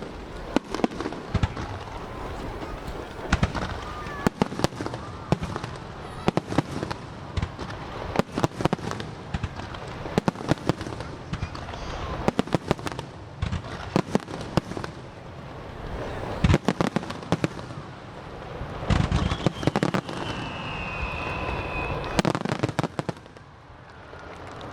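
Aerial fireworks display: a rapid barrage of sharp bangs and crackling bursts, coming in dense clusters throughout, with spectators' voices underneath.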